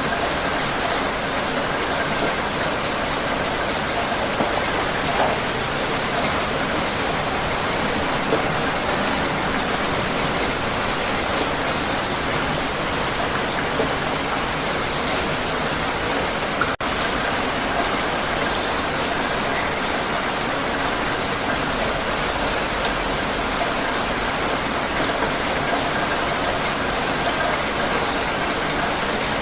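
Heavy rain falling steadily on a surface, a dense even hiss flecked with individual drop ticks. About seventeen seconds in there is a brief dropout, as at a loop splice.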